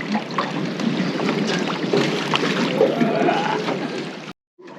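Wind and water noise aboard a small fishing boat: a steady rushing hiss with short splashes or knocks through it, cutting off abruptly near the end.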